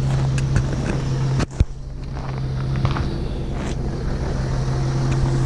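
2010 Infiniti G37X's 3.7-litre V6 idling steadily through an aftermarket HKS exhaust, still cold after a start at about minus 33 °C. A brief drop in level and a sharp click come about a second and a half in.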